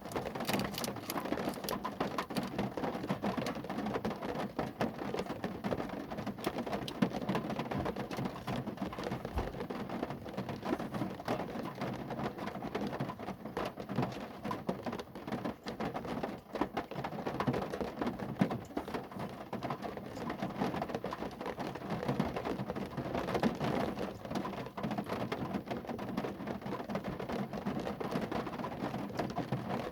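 Steady rain falling on a car, a dense, even patter of many small drop impacts on the bodywork.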